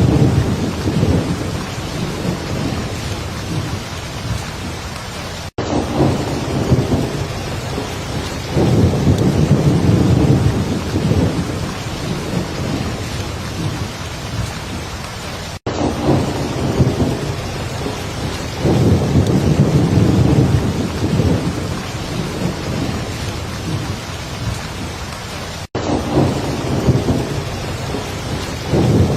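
Heavy rain falling steadily, with low rolls of thunder swelling and fading every few seconds. The sound cuts out for an instant about every ten seconds.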